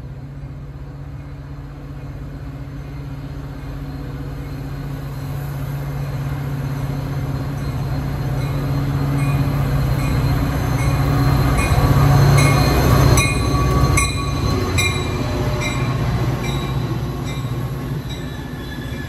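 A Metra EMD F40PH diesel locomotive and its bilevel commuter coaches rolling in alongside a platform, growing louder to a peak as the locomotive passes about twelve seconds in, then the coaches running past more quietly. Through the second half a bell rings about twice a second, and a freight train of hopper cars rolls by steadily on the far track.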